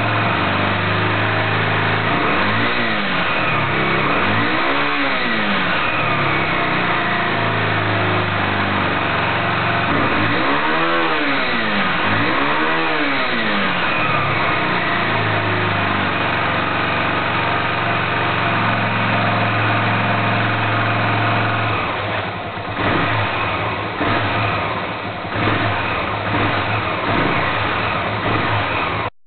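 An XT's engine idling and revved in four short blips, the pitch rising and falling each time: twice in the first few seconds and twice more around ten to thirteen seconds in. Near the end the sound turns choppy and uneven, with dips in level.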